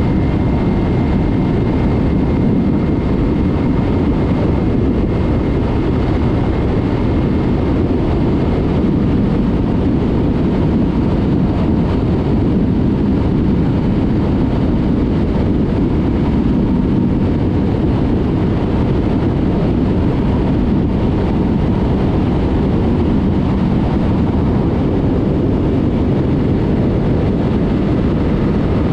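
Yamaha MT-03 parallel-twin motorcycle riding at a steady speed, its engine mixed with loud, steady wind rush on the microphone.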